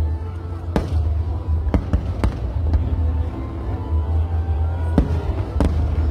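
Aerial firework shells bursting in a string of sharp bangs, roughly one every half second to a second, over music playing with a heavy bass.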